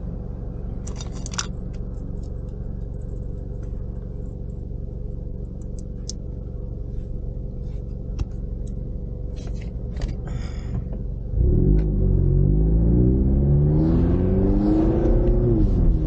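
Ford Mustang EcoBoost's turbocharged four-cylinder engine, heard from inside the cabin. It idles steadily with a few light clicks, then about 11 seconds in it pulls away hard, getting louder with its pitch rising, and the pitch drops back near the end as it shifts up.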